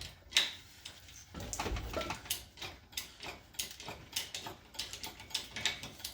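A ratchet mechanism clicking in a steady run, two to three clicks a second, as the car's engine is being lifted out. There is a single knock just after the start.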